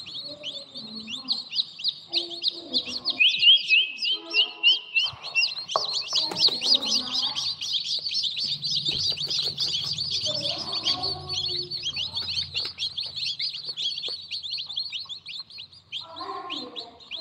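A brood of newly hatched baby birds chirping together: a dense, continuous chorus of high, rapid peeps, many falling quickly in pitch.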